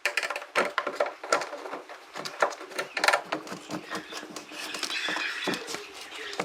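Irregular light clicks and taps, with a stretch of rustling or scraping noise about five seconds in.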